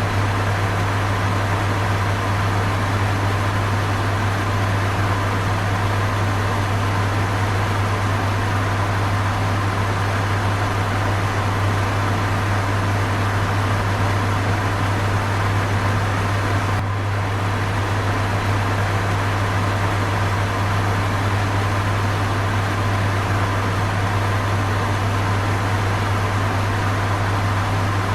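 Electric fan running steadily: an even rushing hiss over a strong low hum.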